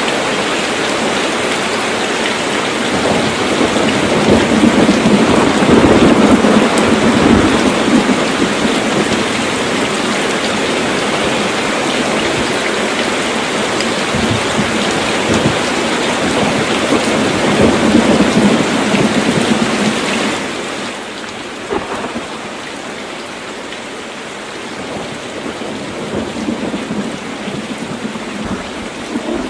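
Heavy rain falling on a tin roof, with thunder rumbling twice, first a few seconds in and again past the middle. About two-thirds of the way through, the rain eases to a quieter, softer fall.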